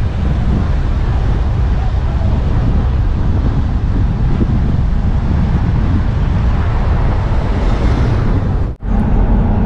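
Steady wind noise on the microphone over the rumble of a BMW Z4 driving along at speed. The sound cuts out for a split second near the end, then the same noise resumes.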